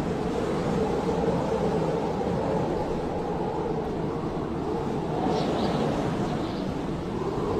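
Blizzard wind blowing steadily, a dense, low rushing noise.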